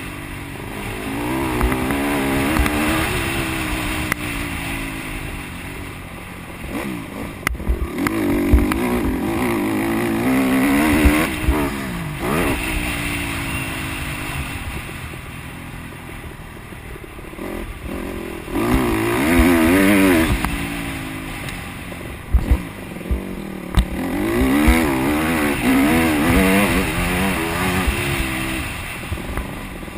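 Honda CRF150R four-stroke single-cylinder motocross bike running, its engine revving up and down with the throttle. It swells loud four times, near the start, around ten seconds in, around twenty seconds in and near the end, with the pitch rising and falling each time. Sharp knocks sound here and there.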